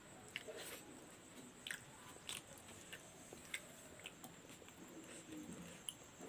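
Faint chewing and mouth sounds of a person eating, with scattered small clicks and smacks.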